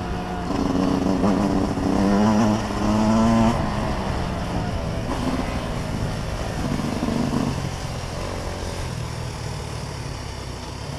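Dirt bike engine running as it is ridden, its pitch rising and falling through the first few seconds, then running steadier and a little quieter.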